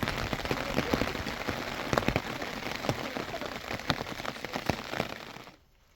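Heavy rain falling, with many separate drops striking a surface sharply; it cuts off suddenly near the end.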